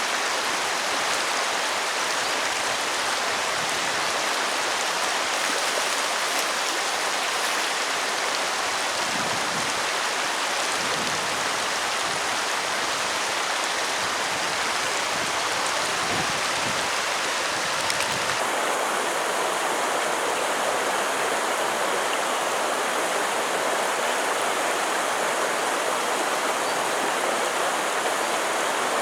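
Steady rushing of a stream. About two-thirds of the way through the sound changes abruptly, losing some of its low rumble.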